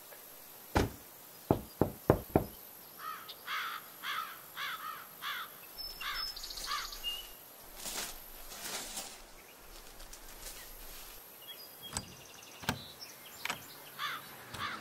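A bird chirps in a short repeated phrase, about two calls a second, for a couple of seconds. Several sharp thumps come in the first few seconds, and a few clicks follow later.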